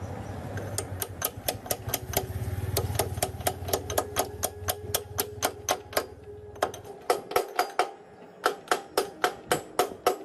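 Rapid, even metallic tapping, about three or four strikes a second, each with a short ringing note. A low hum runs underneath and stops about seven seconds in.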